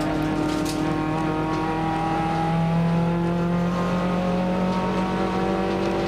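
Nissan March race car's engine heard from inside the cabin, running hard under load, its pitch rising slowly and then holding steady.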